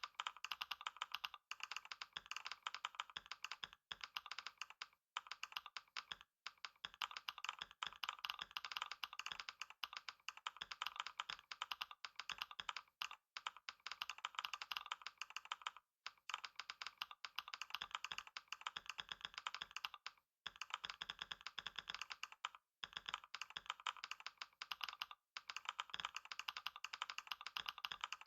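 Computer keyboard under fast, continuous typing in a speed typing test, a dense patter of keystrokes broken by short pauses every few seconds.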